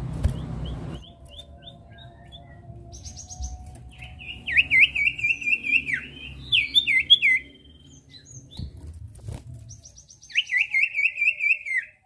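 Common iora (sirtu) singing in three bursts of fast, repeated looping notes, several a second, with fainter higher calls between the bursts.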